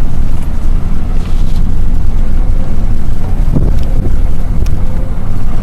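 Car driving on a snow-covered road: a loud, steady low rumble of engine and road noise, with wind on the microphone.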